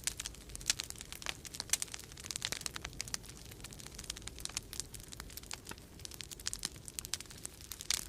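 Wood fire crackling, with many irregular sharp pops and snaps, over a steady low rumble of storm wind.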